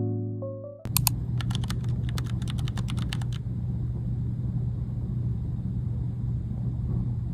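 Rapid, irregular clicks of typing on a keyboard for about two and a half seconds, over a steady low hum.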